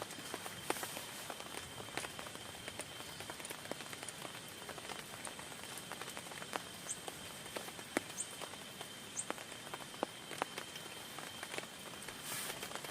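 Rain on a tent: a steady patter of rain with scattered single drops ticking sharply and irregularly on the fabric, and a heavier wash of rain near the end.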